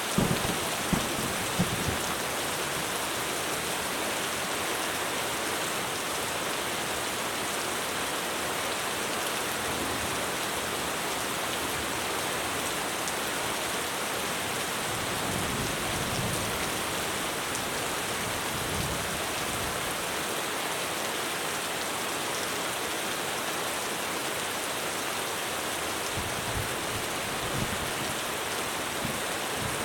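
Heavy rain falling steadily on a roof, an even hiss, with brief low rumbles of distant thunder about a second in, around the middle and near the end.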